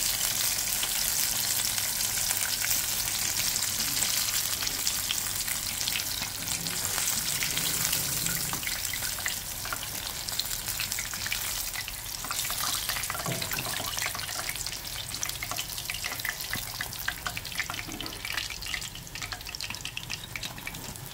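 Cornflour-coated chicken pieces deep-frying in a pan of hot oil, a steady crackling sizzle that dies down toward the end as the fried pieces are lifted out and the pan empties.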